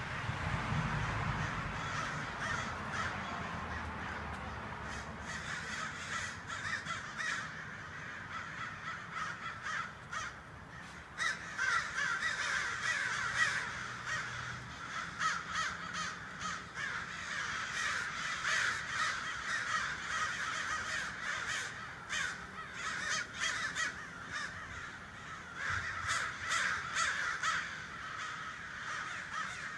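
A large flock of birds calling all at once: many overlapping calls blend into a dense, continuous chorus that swells and dips in loudness.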